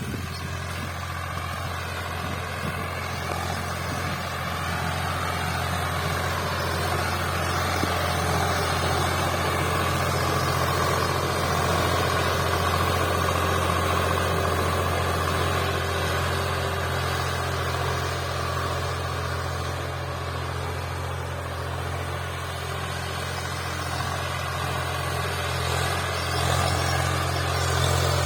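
Swaraj 735 XT 40 HP tractor's diesel engine running steadily under load while ploughing, a continuous low drone that slowly swells and eases a little.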